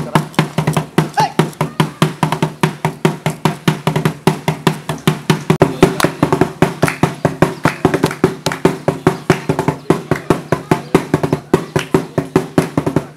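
Percussion music: fast, even strokes at about five a second over steady low pitched tones.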